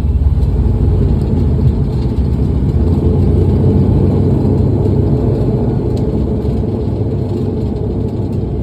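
Airliner landing: a steady low rumble of engines and airframe that slowly eases off.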